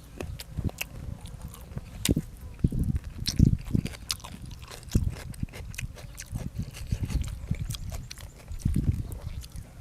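Close-up eating sounds: a person chewing and smacking with an open mouth, with irregular wet clicks and soft low thumps several times a second.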